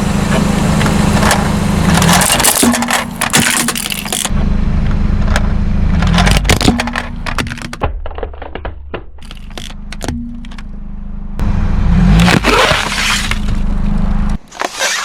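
A car's engine drones steadily while its tyres roll over brittle objects and crush them: repeated crackling, snapping and scraping. The crunching is densest in the first half and again near the end. The drone stops about a second before the end.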